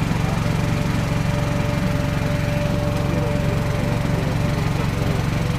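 A small boat's motor running steadily, with a fast low pulsing.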